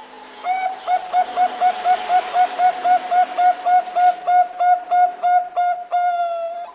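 Zebra dove (Bangkok perkutut) calling: a fast run of short cooing notes, about four a second, ending in one longer held note.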